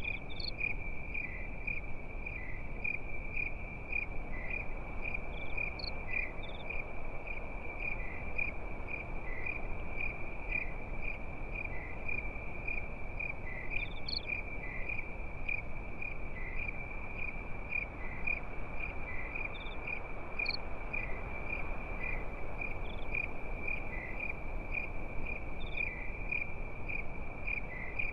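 Crickets chirping at night: one steady, pulsing high trill with a second cricket's short chirps about twice a second, and an occasional higher chirp every few seconds. Underneath runs an even low hiss and crackle of a campfire.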